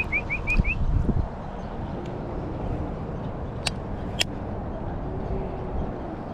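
A bird gives five quick rising chirps at the start, over steady low rumbling outdoor noise; two sharp clicks follow a few seconds later.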